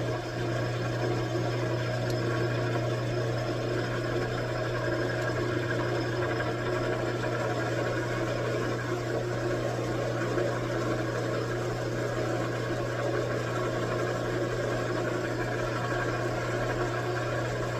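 Metal lathe running with a steady low hum, turning down a piece of bar stock.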